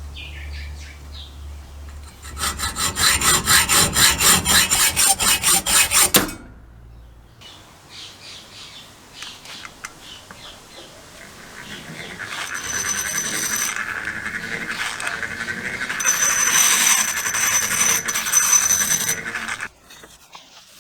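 Fast back-and-forth abrasive strokes on metal, about five a second, like hand filing or scrubbing rust off a part, stopping after about four seconds. Later a small power tool with a steady high whine grinds or sands the metal in two spells, cutting off sharply near the end.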